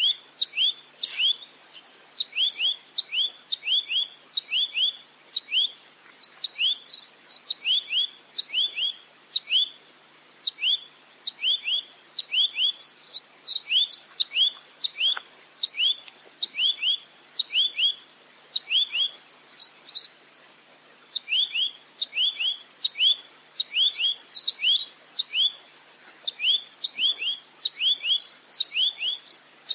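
Velvet-fronted nuthatch (rambatan) calling in long rapid runs of sharp, down-slurred notes, about three a second. The runs break off in short pauses and have higher twittering notes mixed in.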